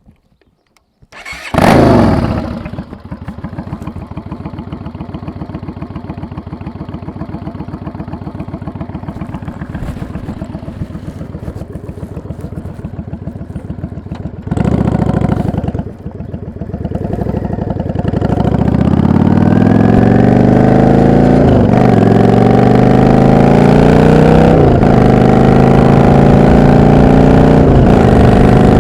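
Yamaha XVS650 Dragstar's V-twin engine starting about a second in with a loud catch, then idling with a steady, lumpy beat. About halfway through comes a brief rev. Then the bike pulls away, the engine note rising and dropping back at each of three upshifts.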